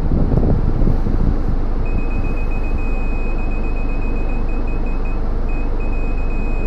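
4WD engine running steadily, heard from inside the cab, with a thin high steady whine that starts about two seconds in and breaks off briefly now and then.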